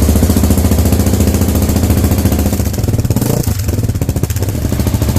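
KTM 690 SMC R's single-cylinder engine running with an even, rapid beat through an aftermarket Arrow exhaust with a catalytic converter.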